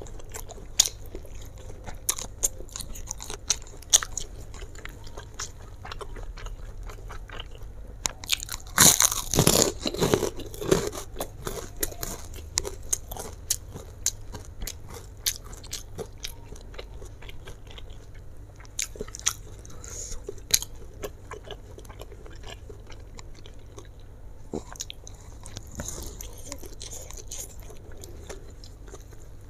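A person chewing and biting mouthfuls of fried flat rice noodles close to the microphone, with many sharp, wet mouth clicks. A louder crunchy stretch of chewing comes about nine seconds in.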